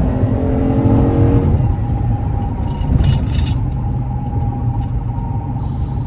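Dodge Charger's engine pulling under throttle for about the first second and a half, then easing off to a steady low rumble as the car coasts or slows.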